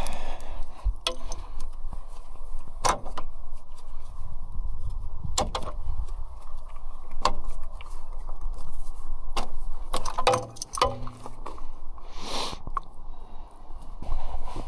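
ASV RC100 skid steer's diesel engine idling steadily while the snowblower attachment is unhooked, with scattered metal clicks and clanks over the engine sound.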